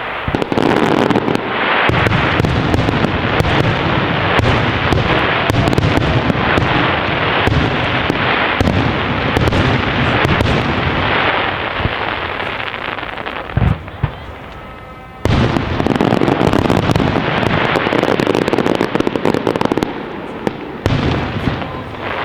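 A dense fireworks barrage: rapid overlapping bangs and crackling from many shells, with a short lull about two-thirds of the way through before it starts up again.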